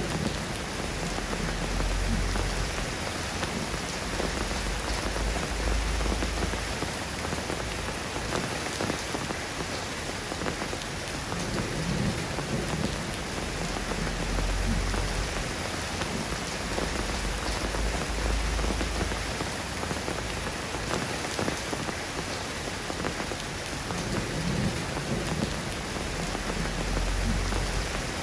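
Steady rain falling, a dense even patter of drops, with a deep low rumble that swells and fades three times.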